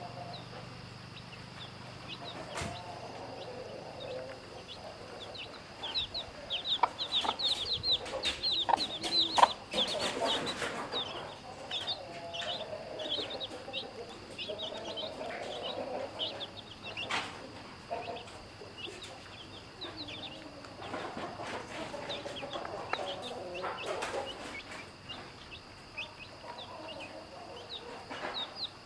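Chicks peeping continually in short high chirps, busiest a few seconds in, over a mother hen's low clucking, with a few sharp taps.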